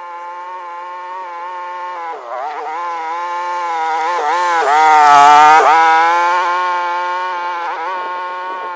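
Small engine of an off-road buggy running steadily as it pulls a chain drag. Its pitch dips and wavers a few times, and it grows louder toward the middle, peaking a little past halfway, then fades.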